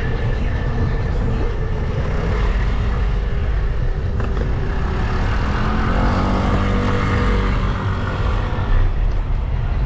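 City street traffic: motor vehicles running past over a steady low rumble. About six seconds in, one engine's drone swells and shifts in pitch as it goes by, fading out near the end.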